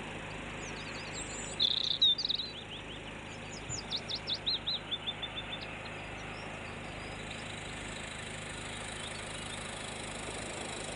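A small songbird singing: a short burst of high chirps about two seconds in, then a run of about ten quick repeated high notes, over a steady background noise with a faint low hum.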